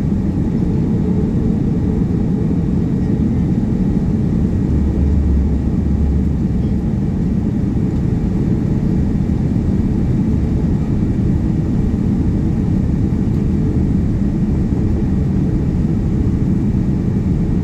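Steady low drone of a Boeing 787-9 in flight, heard inside the passenger cabin: engine and airflow noise, unchanging throughout.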